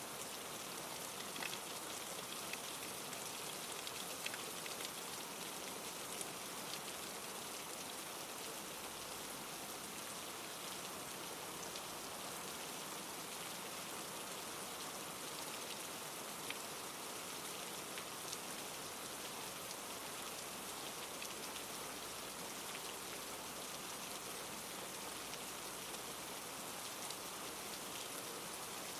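Steady rainfall hissing evenly, with scattered individual drops ticking sharply over it.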